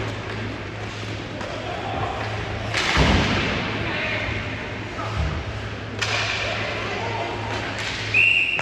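Sounds of an ice hockey game in an arena: a loud thud about three seconds in and a lighter one around six seconds, over background voices. Near the end comes a short referee's whistle blast.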